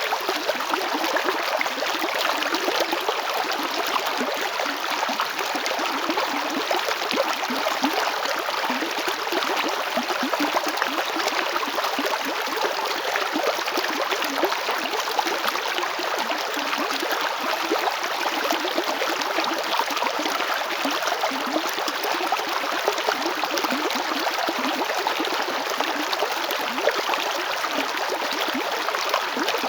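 A river flowing over stones: a steady, dense rushing and babbling of water with constant small gurgles and splashes.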